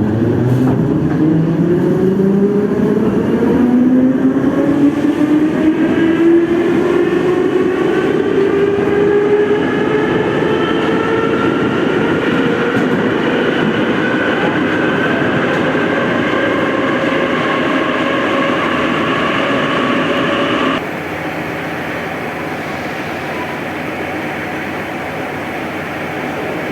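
Moscow metro train pulling away: the traction motors give a whine that rises steadily in pitch as the train gathers speed, over the rumble of the wheels on the rails. About 21 s in the sound drops abruptly to a quieter, steady running noise.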